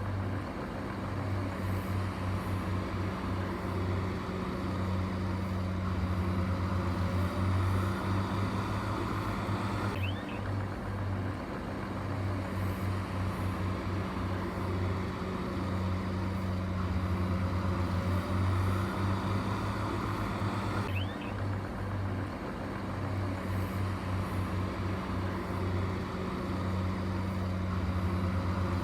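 Heavy construction machinery's engine running steadily with a low, throbbing note.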